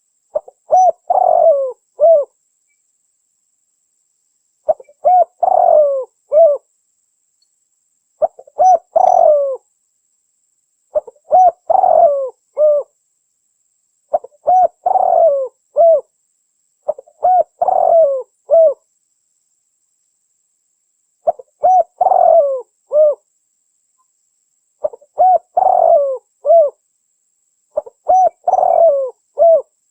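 Spotted dove (tekukur) cooing, as a lure call: the same short phrase of several coos repeated nine times, about every three seconds.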